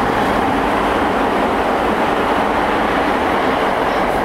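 Tokyo Metro 03 series electric train running steadily at speed: a constant, even noise of wheels on rail and car running gear.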